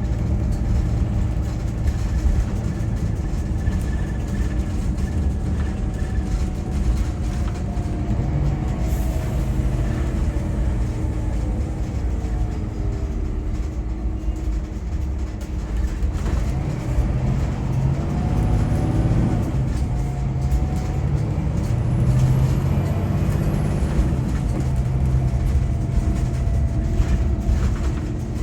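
Scania K410EB6 coach under way: a steady engine drone and tyre road noise, with the engine note shifting in pitch around the middle as it changes speed.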